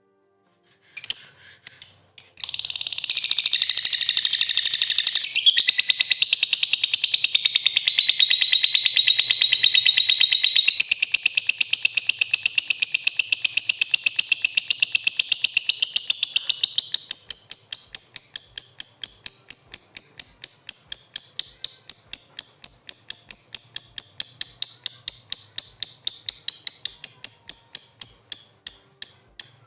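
Lovebirds chirping: a dense, shrill stream of rapid chirps that after about seventeen seconds thins into an even run of separate chirps, several a second, fading near the end.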